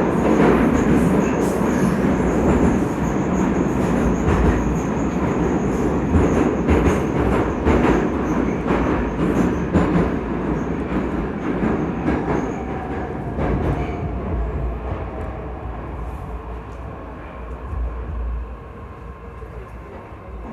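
81-722.1 metro train heard from inside the car while running through a tunnel: loud rumble of wheels on rail with clicks and rattles. The noise fades steadily through the second half as the train slows, and a faint gliding whine shows through near the end.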